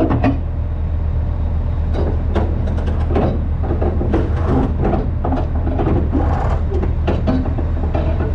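A semi truck's diesel engine idles steadily, with irregular knocks and rattles over it that thicken about two seconds in.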